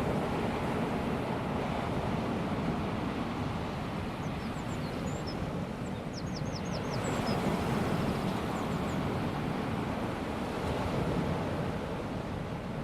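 Small waves of a calm sea washing onto a sandy beach, a steady hiss that swells at the start and again about seven seconds in. Short high chirps come in around the middle.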